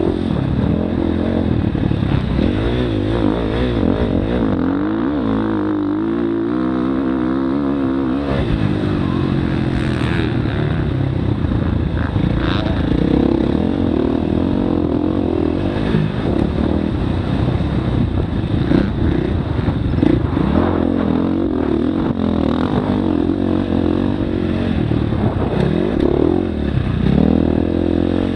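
Dirt bike engine on a motocross track, revving up and falling back again and again as the rider works the throttle and shifts gears.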